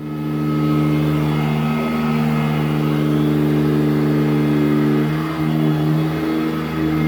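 Sanitaire SC899 commercial upright vacuum cleaner running with a steady motor hum. It comes in abruptly and holds level, its pitch wavering a little about five seconds in as it is worked over the carpet.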